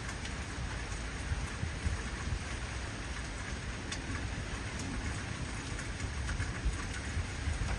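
Heavy rain falling steadily, with scattered drop ticks and a low rumble of distant thunder underneath that swells a little now and then.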